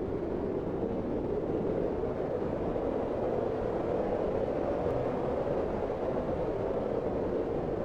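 Steady, dull rushing noise: the low, even roar of a fireplace fire, with no distinct crackles standing out.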